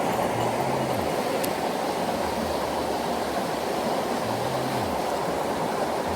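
Mountain stream rushing over rocks in a steady, loud flow, with a few low notes of background music underneath.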